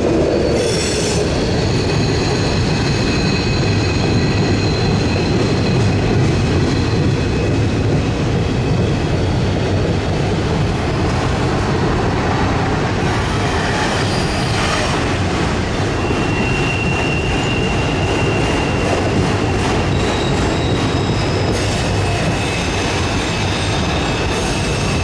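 Freight train cars rolling steadily past on a curve: a continuous low rumble of steel wheels on rail, with the wheels squealing against the rails in several thin, high tones that come and go.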